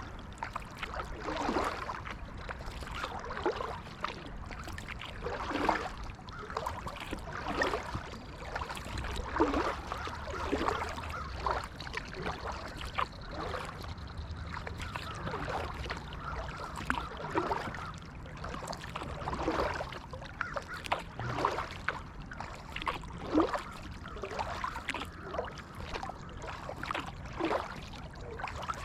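Kayak paddle strokes: the blades dip and splash in the water in an irregular rhythm, about one stroke every second or two, over a low steady rumble.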